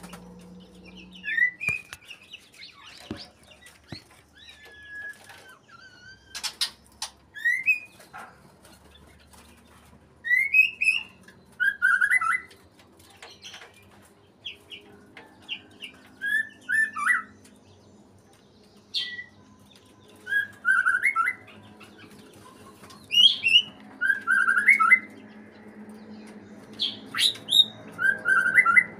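White-rumped shama singing: short, loud whistled phrases repeated every second or two, with sharp high notes between them. The song is taken as a sign that the bird is in breeding condition.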